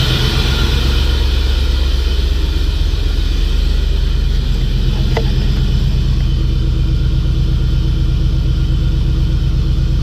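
Chevrolet Camaro IROC-Z's 5.7-litre V8 idling steadily, a little high because the engine is cold, on freshly installed Bosch 27 lb fuel injectors. A low, even rumble.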